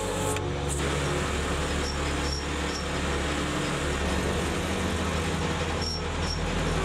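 Home-built forge furnace's burner and blower running: a steady rushing noise with a low hum underneath.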